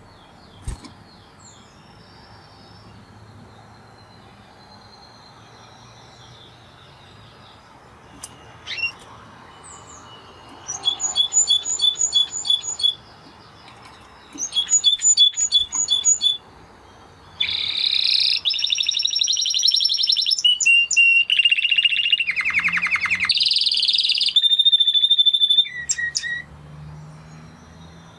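Spanish Timbrado canary singing. Faint notes for about the first ten seconds give way to two short bursts of rapid repeated high notes, then a loud unbroken run of trills and rolls lasting about eight seconds that stops shortly before the end.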